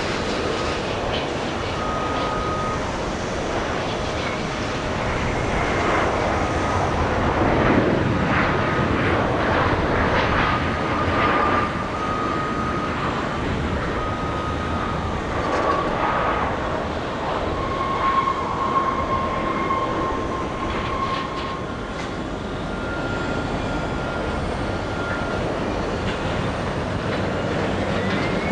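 Jet airliner engines running: a steady rush of engine noise with a high whine that shifts in pitch, and a rising whine near the end.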